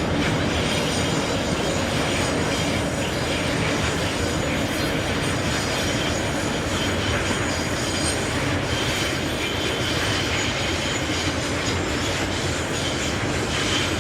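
Freight train wagons rolling past on the rails, a steady rumble of wheels on track, with thin high-pitched wheel squeal in the second half.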